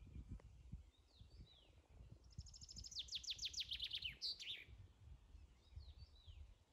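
A songbird singing faintly: a fast trill of about a dozen descending high notes that ends in a short flourish, with a few single high chirps before and after.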